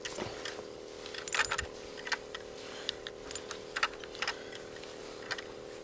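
Fishing reel and rod tackle clicking while a hooked fish is fought: scattered light, irregular clicks and ticks, with a small cluster about a second and a half in.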